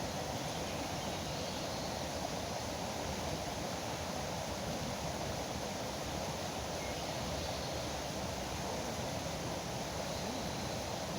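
Flowing river water rushing steadily, an even, unbroken wash of noise.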